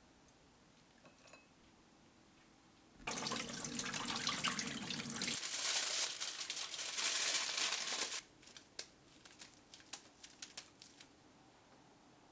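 Water running from a tap for about five seconds, stopping abruptly, followed by a few small clicks and drips.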